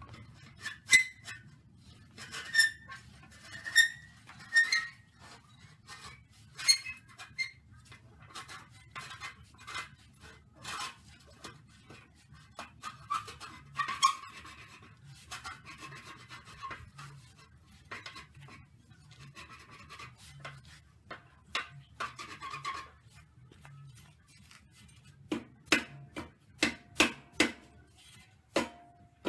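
Rubber mallet knocking on a wooden block to drive the baffle out of a motorcycle exhaust muffler, with scattered metallic clinks and scraping as the baffle shifts. Near the end comes a run of evenly spaced blows, about two a second.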